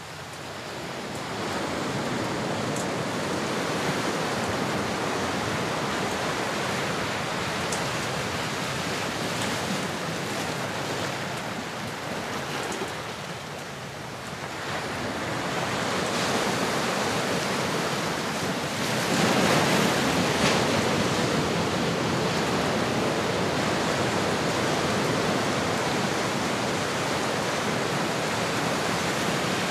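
Ocean surf recording: a steady rushing wash of waves that swells, eases briefly about halfway through, then builds again, loudest about two-thirds of the way in.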